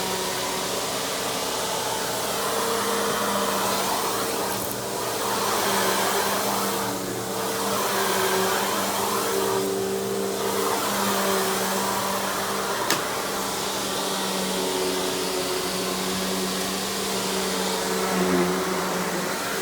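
Simplicity Symmetry Deluxe upright vacuum with a 12-amp single-stage clean-air motor, running steadily with a steady hum. Its sound swells and eases every couple of seconds, and there is one sharp click about 13 seconds in.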